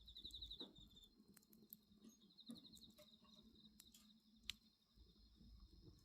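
Faint crickets chirping in rapid high trills over a steady background of insect song, with scattered small crackles from a wood fire and one sharper pop about four and a half seconds in.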